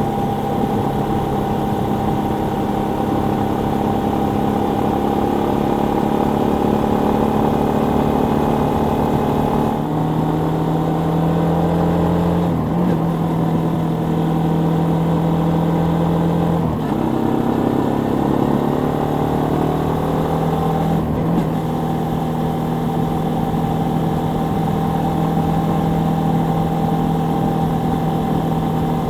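Suzuki Volty 250 (TU250) single-cylinder engine running steadily. Its pitch drops and climbs again a few times between about ten and twenty-one seconds in, then holds steady.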